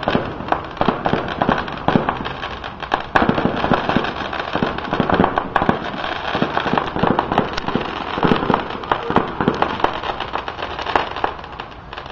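Fireworks going off in a rapid barrage of bangs and crackles, several a second, thinning out near the end.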